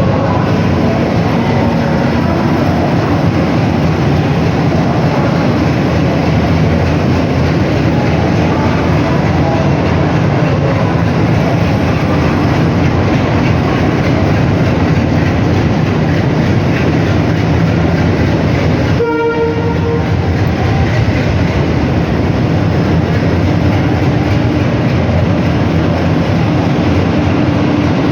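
WDG3A diesel locomotive's 16-cylinder ALCO engine running loudly with a steady low hum, with the rumble of the train moving on the rails. About two-thirds of the way through there is a short break in the noise and a brief pitched tone, likely a short horn note.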